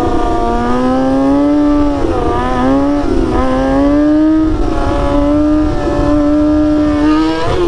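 Sport bike engine held at steady high revs, its pitch dipping briefly twice and creeping up with the throttle before dropping near the end, as when riding a wheelie. Wind buffets the microphone underneath.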